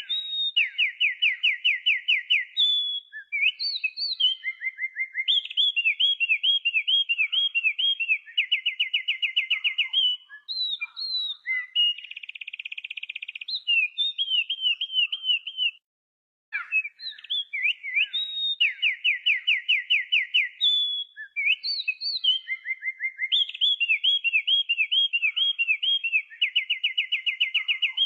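A songbird singing a long, varied song of rapid trills, rolled notes and sharp chirps. After a brief silence about 16 s in, much the same song sequence starts again.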